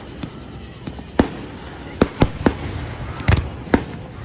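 Fireworks bursting at a fireworks show: about six sharp bangs at uneven intervals, the loudest a little past three seconds in.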